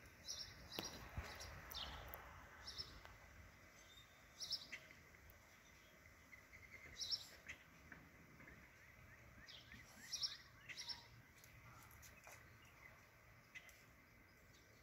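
Birds chirping faintly and intermittently: short high chirps every second or few, with a quick run of small chirps around the middle, over a quiet outdoor background.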